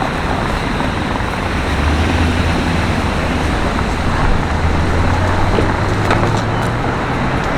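Street traffic: a vehicle engine hums low and steady over general road noise, its pitch rising slightly in the second half.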